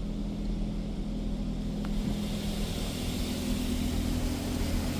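Washworld Razor touchless car wash spraying the car, heard from inside the cabin: a steady low machine hum, with the hiss of water spray on the body growing stronger from about two seconds in.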